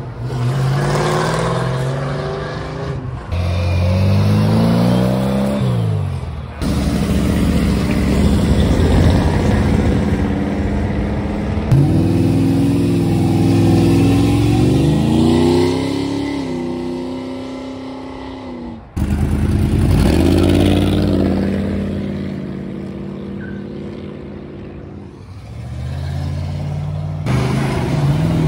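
Several modified muscle cars and an old pickup, among them Fox-body Ford Mustangs and a square-body Chevrolet stepside, accelerating hard one after another. Each engine revs up with its note rising, then drops back at the gear shifts. The sound jumps abruptly from one car to the next several times.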